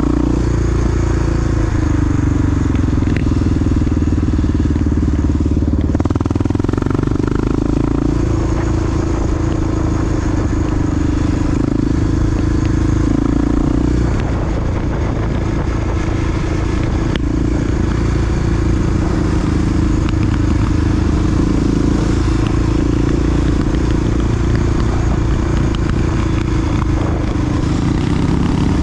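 Big-bore single-cylinder Honda XR dual-sport motorcycle engine running steadily while riding, its pitch rising and falling slightly as the throttle changes.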